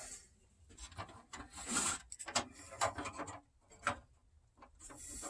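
Resin and plastic model parts being handled and rubbed together: scattered soft scrapes and light clicks.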